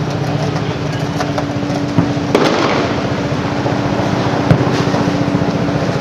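Aerial fireworks shells bursting: a bang about two seconds in, then a bigger burst trailing off in crackle, and another sharp bang a couple of seconds later, all over a steady low hum.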